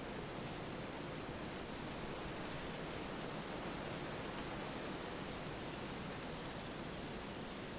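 Wind blowing steadily through forest trees, an even rushing with no breaks or gusts.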